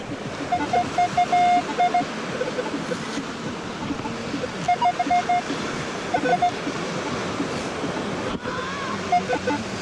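Minelab Equinox 600 metal detector beeping in short groups of steady tones as the target in the sand scoop is passed over the coil. A steady rush of wind and surf runs under it.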